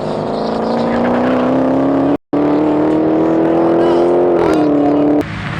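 Race car's engine pulling hard at full throttle, its pitch climbing steadily as it accelerates, with a drop in pitch at a gear change about four and a half seconds in. The sound breaks off for a moment about two seconds in and cuts off abruptly near the end.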